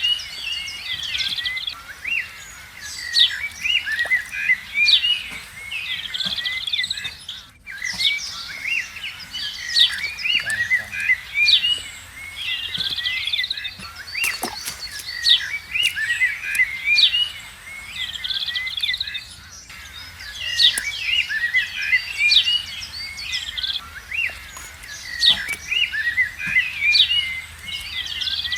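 A chorus of small birds chirping, with many short, high calls overlapping continuously.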